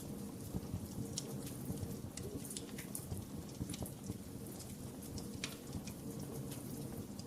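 Wood fire in a fireplace crackling, with frequent sharp pops and snaps, several a second, over a low steady rumble of the flames.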